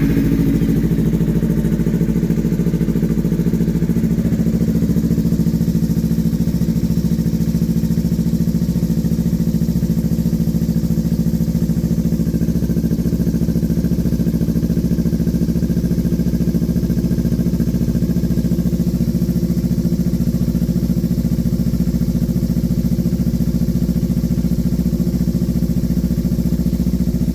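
Kawasaki Ninja 300's parallel-twin engine idling steadily just after starting, run with fresh oil to warm up and check for leaks.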